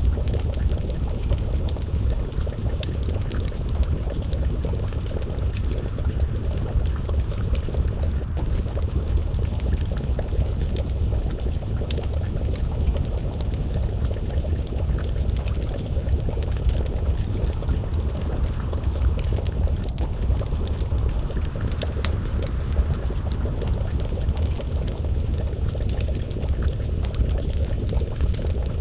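Wood fire crackling with frequent small pops over a steady low rumble, mixed with a pot of stew bubbling as it simmers.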